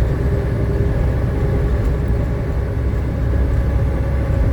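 Steady low rumble of a truck's engine and road noise, heard from inside the cab while driving, with a faint steady whine above it.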